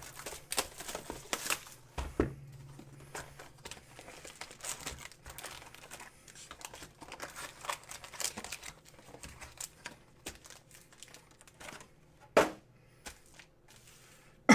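Plastic wrapping on trading-card boxes being torn and crumpled, with irregular crinkling and a couple of sharper knocks from handling the boxes.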